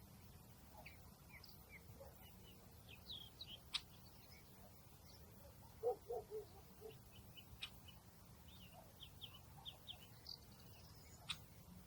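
Faint outdoor ambience of small birds chirping, with short high chirps scattered throughout and a few sharp ticks. The loudest thing is a quick run of four short, lower calls about six seconds in.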